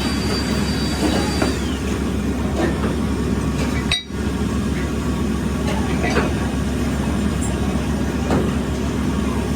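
Steady machinery hum on a factory floor, with occasional light metal clinks and knocks. The sound cuts out briefly about four seconds in.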